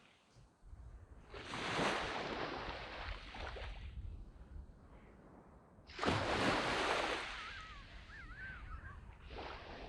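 Small waves breaking and washing up a sand beach, twice: one surge about a second in and another about six seconds in, each fading away over a couple of seconds.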